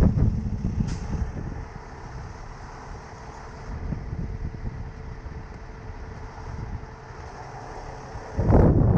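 Heavy diesel truck engine running steadily with a low rumble and a faint constant hum, louder in the first moment. A loud, sudden burst of noise about eight and a half seconds in.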